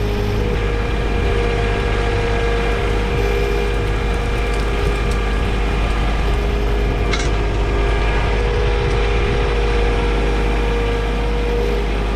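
Compact tractor's diesel engine running steadily, with a short click about seven seconds in.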